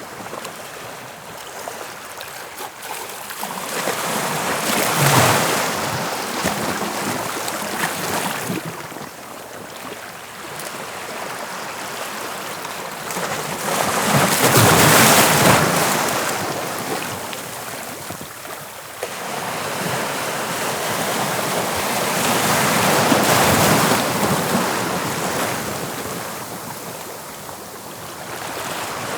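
Sea waves breaking and washing on the shore, the surf swelling and fading about every eight to ten seconds, with wind on the microphone.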